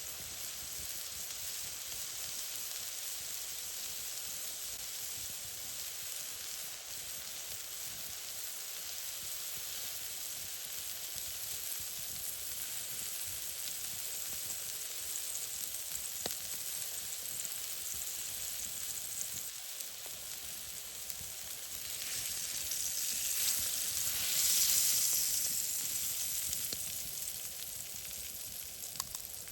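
Food sizzling over an open campfire: a steady frying hiss that swells louder for a few seconds about three-quarters of the way through.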